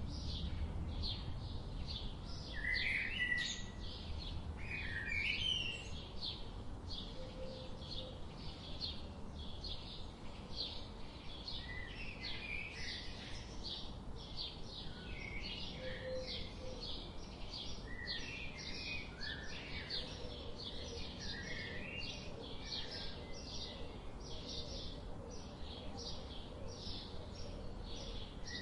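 Birds chirping: a steady stream of short, high chirps, several a second, with occasional lower warbling phrases from other birds mixed in.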